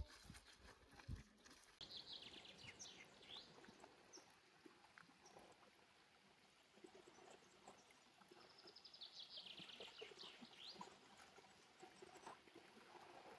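Faint stream-side ambience: a shallow stream running over rocks gives a soft, even hiss, and a songbird sings two short phrases of quick trilling notes, about two seconds in and again near ten seconds. A soft thump about a second in.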